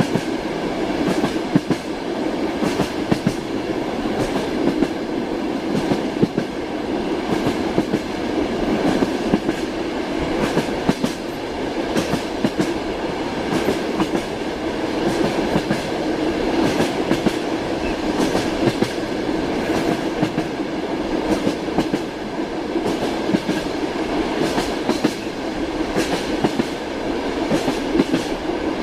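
Passenger train running steadily, heard from inside a compartment car: a continuous rumble with the frequent clatter and knocks of the wheels over the rails.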